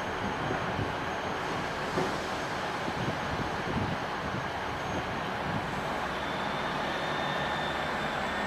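Diesel train running: a steady rumble with some irregular low knocks in the middle and a faint high whine near the end.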